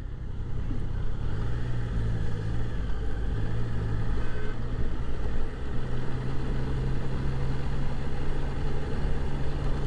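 Motorcycle engine running at a steady low road speed, its low note shifting slightly a couple of times, over a constant rush of wind and road noise.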